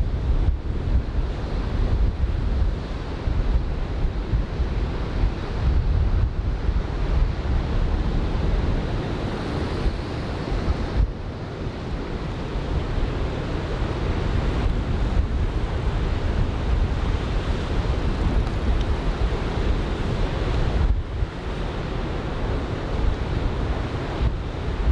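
Wind buffeting the microphone with a deep rumble, over the steady wash of breaking surf.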